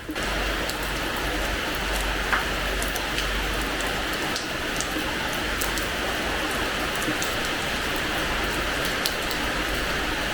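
Steady rain falling on a terrace floor: an even hiss with scattered sharp ticks of single drops striking the surface.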